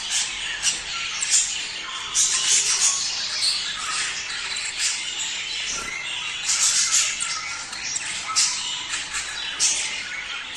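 Flock of budgerigars chattering and squawking, with many short sharp calls overlapping without a break: the busy chatter of birds in breeding condition.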